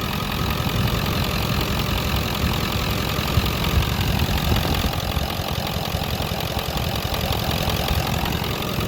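Ford 7.3 Powerstroke turbo-diesel V8 idling steadily.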